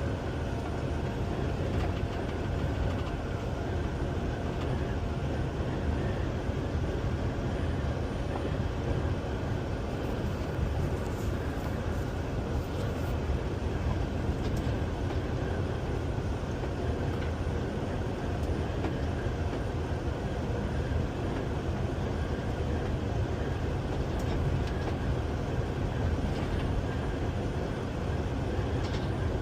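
Semi truck driving: a steady, even rumble of engine and road noise with no breaks.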